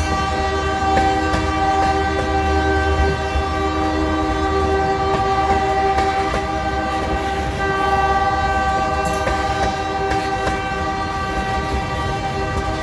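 Freight train of tank cars rolling past close by with a low rumble, while the locomotive horn sounds a long, steady multi-note chord. The chord thins for a moment about halfway through.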